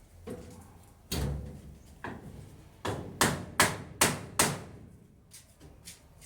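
A series of sharp knocks: a few single hits about a second apart, then four loud ones in quick succession.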